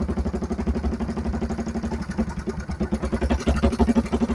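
A motorcycle engine idling with an even, rapid pulsing beat.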